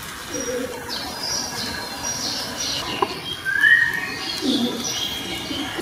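Birds chirping repeatedly, with low cooing calls in the second half and one louder rising call about three and a half seconds in.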